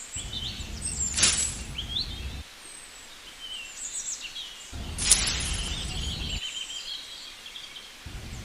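Small birds chirping repeatedly in the background, over a low rumble that cuts in and out abruptly. Two sharp knocks stand out, about a second in and about five seconds in.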